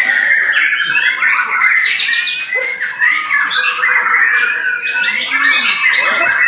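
Several white-rumped shamas singing at once, a dense tangle of overlapping whistles and chirps with no pause.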